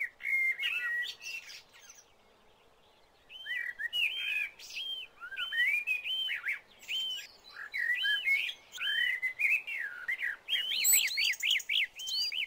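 A songbird singing in varied, quickly rising and falling whistled phrases, with a short pause about two seconds in, and ending in a fast run of evenly repeated notes.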